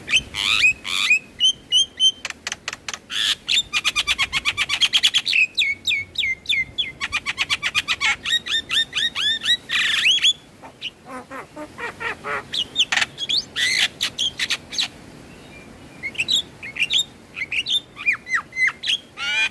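Javan myna song: fast runs of harsh chattering, clicking and squawking notes, with short sweeping whistles in between. The calls drop away briefly a little past halfway, then start again.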